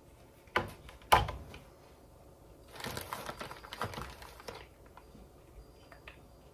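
Clicks and knocks of hands working a hot glue gun against a glass vase: two sharp knocks about half a second apart near the start, then about two seconds of rustling and small clicks.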